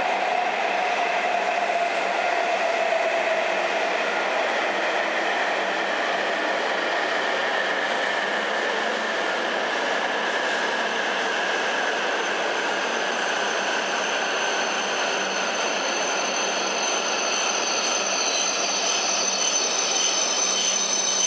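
Hokuriku Shinkansen E7/W7-series train slowing as it runs into the platform, its running whine gliding slowly down in pitch. A high brake squeal sets in during the last few seconds as it comes toward a stop.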